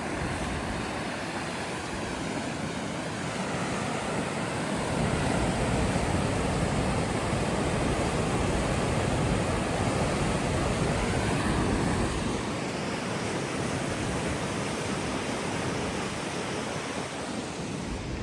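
Steady rushing roar of a waterfall and fast river. Wind buffets the microphone, heaviest in the middle stretch.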